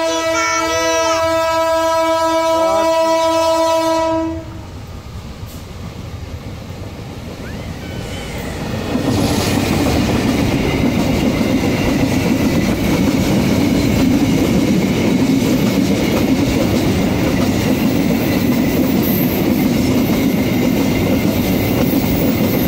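A locomotive horn sounds one long, steady blast that cuts off about four seconds in. The train's rumble then builds, and from about nine seconds in a long train of railway tank wagons passes close by with a loud, steady rumble of wheels on rail.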